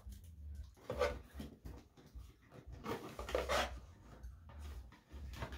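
A person chewing a chewy drumstick candy with the mouth closed, making wet mouth noises in irregular bursts, the loudest about a second in and around three seconds in.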